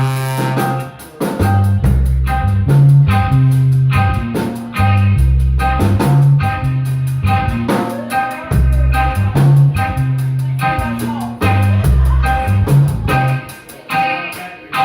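Live band playing an instrumental tune: drum kit and a moving bass line under short, evenly repeated chord stabs.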